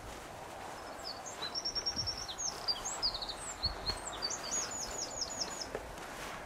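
A small songbird singing: quick runs of short, high repeated notes and trills, starting about a second in and stopping near the end, over a steady outdoor background hiss.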